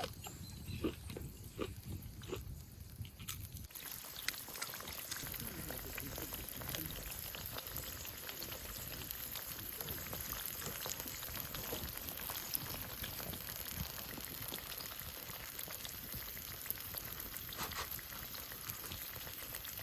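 Food sizzling and bubbling in a pan over a campfire: a steady fine crackle that sets in suddenly about four seconds in, after a few sparse clicks.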